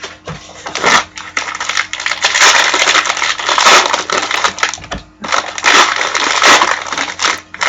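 Foil football card pack wrappers crinkling and tearing as packs are opened, with cards being handled: a dense run of crackles and clicks with a brief pause about five seconds in.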